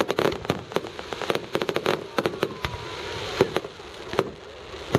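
Fireworks going off in rapid, irregular succession: many sharp bangs and crackling reports, some close together in clusters.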